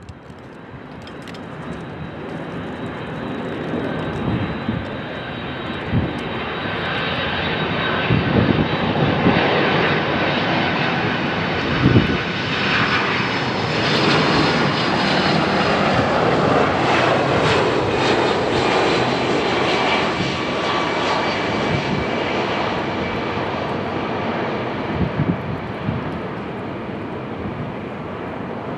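Jet airliner's engines passing close by, the noise building over several seconds, staying loud through the middle with a thin high whine in it, then easing slightly toward the end.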